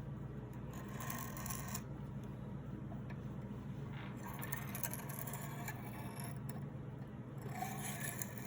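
Knife blade being scraped across a sharpening stone in repeated long strokes, a hissing rasp that comes and goes, over a steady low hum.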